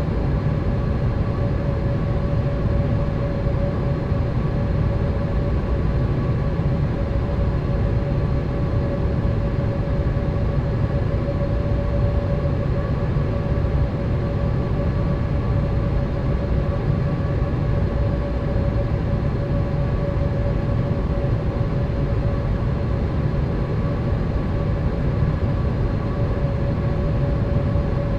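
Boeing 787 airliner cabin noise in flight: a constant low rush of engine and airflow with a steady hum on top.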